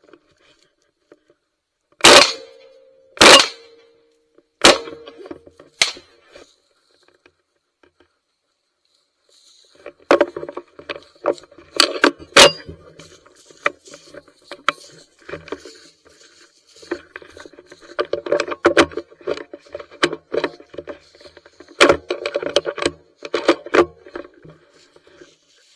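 Three shotgun shots in quick succession, a little over a second apart, followed several seconds later by geese honking and calling again and again.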